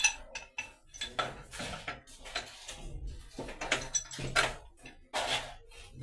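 Metal plumbing pipe and fittings clinking and scraping in irregular knocks as they are handled and worked, some strikes ringing briefly.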